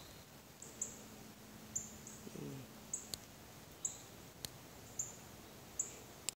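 A small bird giving short, high chirps, repeated irregularly every half second to a second, with a few faint clicks between them.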